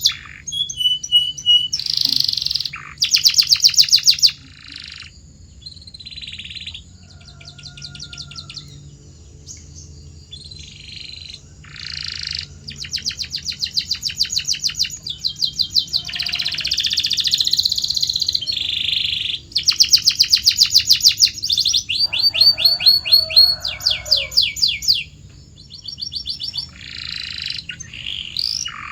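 Domestic canary singing a long song of trills: each phrase a fast run of repeated notes, changing to a new phrase every second or two, some high and some lower in pitch.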